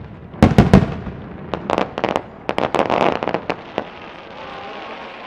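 Aerial fireworks bursting: a quick cluster of loud booms about half a second in, then a rapid string of sharp cracks and pops that dies away after about four seconds.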